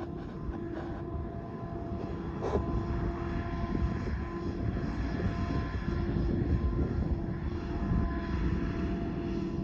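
Tractor engine running steadily: a low droning rumble with a held tone over it, growing a little louder a couple of seconds in.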